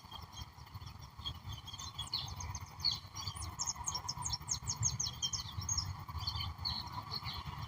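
Several wild songbirds chirping and singing, with a fast run of about a dozen short, falling high notes in the middle. A faint steady hum and a low rumble run underneath.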